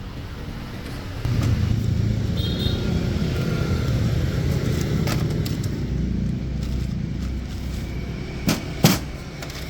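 Motor vehicle engine running with a low rumble that swells about a second in and eases off after about six seconds, followed by two sharp knocks close together near the end.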